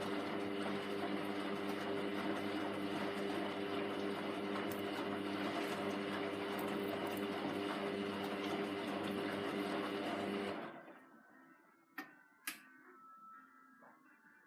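Hoover washing machine running mid-cycle with a steady motor hum, which stops about ten and a half seconds in. Two sharp clicks follow about half a second apart.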